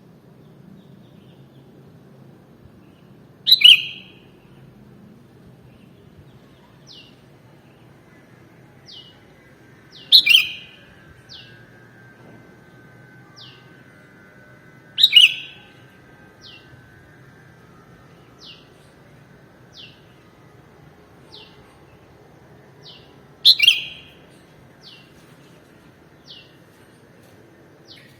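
Sooty-headed bulbul (kutilang) calling: four short, loud calls several seconds apart, with faint quick falling chips about once a second between them.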